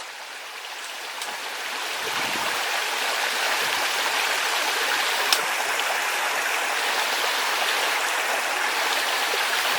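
Mountain stream rushing over rocks in a steady rush of water that grows louder over the first two seconds. A single sharp click sounds about five seconds in.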